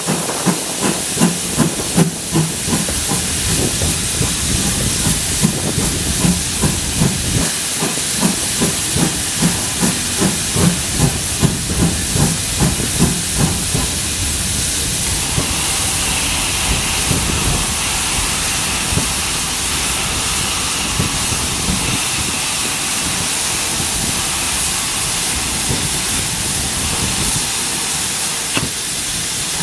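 Steam locomotive working, with regular exhaust beats about two a second over a steady hiss of steam. After about fourteen seconds the beats give way to a steady steam hiss.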